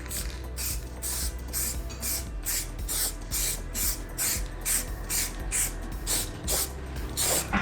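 Aerosol spray paint can spraying in short hissing bursts, about two a second, as paint is laid onto a repaired motorcycle fairing panel.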